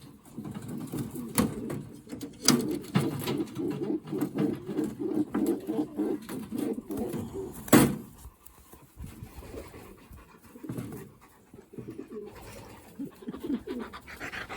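Racing pigeons cooing, a low pulsing coo that is dense for the first half and thins out after, with a few sharp clicks or knocks, the loudest about eight seconds in.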